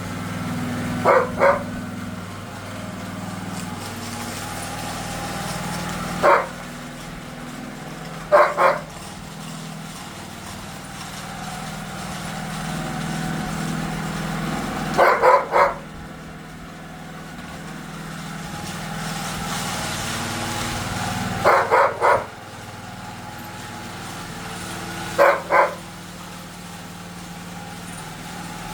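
Small engine of a power trowel running steadily, its sound slowly swelling and fading, while a dog barks in short bursts of two or three barks every few seconds; the barks are the loudest sound.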